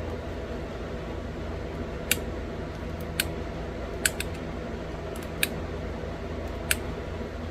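Pressure flaking a small stone bird point: about six sharp clicks as flakes snap off the edge, roughly a second apart, over a steady low hum.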